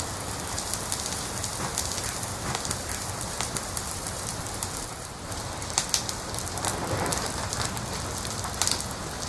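Wood fire crackling: a steady hiss with frequent irregular sharp pops, a few louder pops past the middle and near the end.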